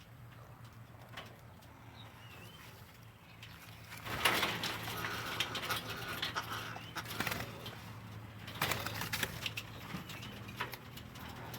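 Small caged parrots, blue-crowned hanging parrots and a long-tailed parakeet, fluttering and scrabbling about the cage, with a few short chirps. The commotion starts about four seconds in and comes in spells, over a low steady hum.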